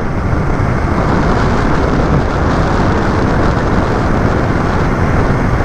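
Steady loud wind rush and road rumble on the microphone from riding along at speed.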